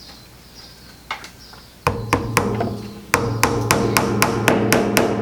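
Hammer driving small nails into a wooden beehive frame. A few separate taps come about two seconds in, then a quick run of strikes at about four or five a second.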